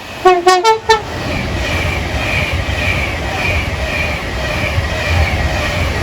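A train's two-tone horn sounds a quick cluster of short notes, then the train runs through the station at speed with a loud, steady rumble.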